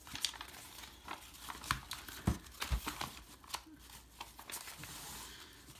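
Paper pages and tags of a handmade junk journal being handled and turned: crinkling paper rustles with scattered light clicks and taps.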